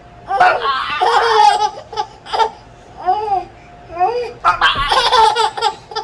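Baby laughing in a string of short peals of giggles, the longest about a second in and again around the fifth second.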